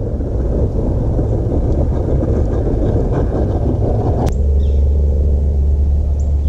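Dense, low rumbling noise. About four seconds in a sharp click, after which a steady low hum takes over.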